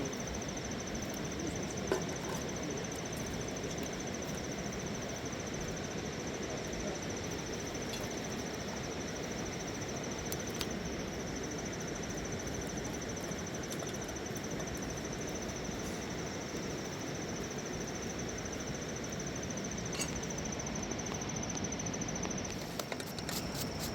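A cricket trilling steadily on one high pitch, over a constant rushing noise, with a few faint clicks.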